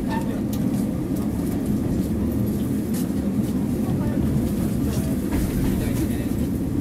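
Inside a moving KiHa 40 diesel railcar: a steady low rumble of the running train, with occasional short clicks from the wheels on the track.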